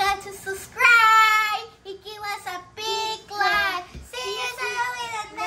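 A young child singing in a high voice, with held, wavering notes and short breaks between phrases.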